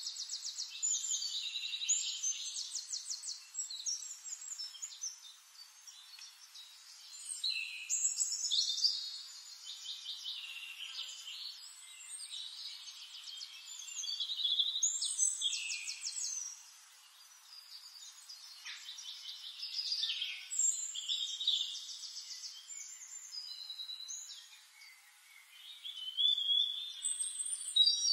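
Birds singing: high-pitched phrases of rapid trills and chirps, a new phrase every few seconds.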